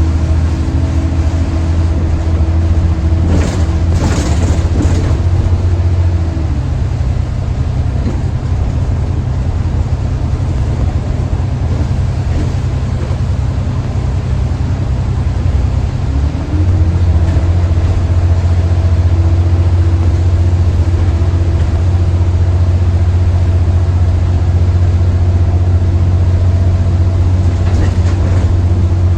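Diesel bus engine running steadily, with no hoover-like whine. Its pitch drops about six seconds in and rises again at around sixteen seconds, with a short burst of hiss about three to five seconds in.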